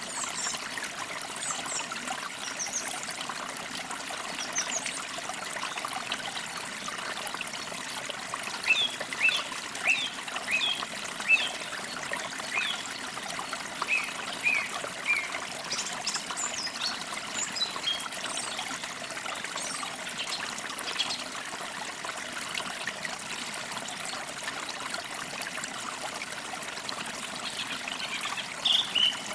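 Water trickling steadily, with songbirds chirping in short bursts: a run of chirps a third of the way in, more around the middle, and another near the end.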